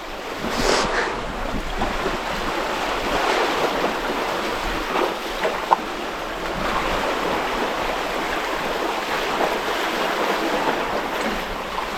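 Steady rush of water and wind on a moving sailboat, with wind buffeting the microphone. There is one brief sharp tick about halfway through.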